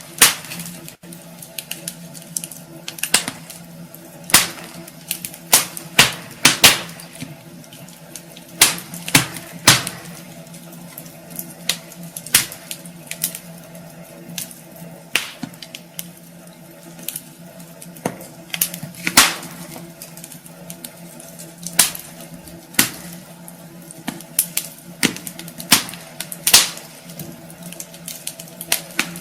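Wood fire burning in a fireplace: logs crackling and popping in irregular sharp snaps, roughly one or two loud pops a second among smaller crackles, over a faint steady low hum.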